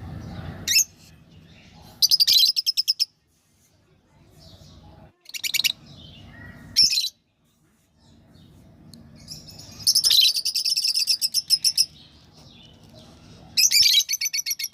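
Lovebird chirping in repeated bursts of rapid, shrill chirps, about ten a second, each burst a second or two long with short pauses between.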